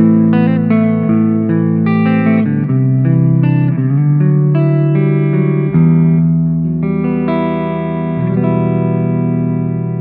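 Electric guitar played through the reverb section of a Nux Cerberus multi-effects pedal: chords picked note by note, ringing into one another with a long reverb tail, and the chord changing a few times.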